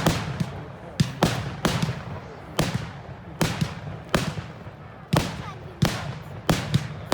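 Fireworks display: a rapid run of sharp bangs, about two a second, each followed by a short rumbling echo.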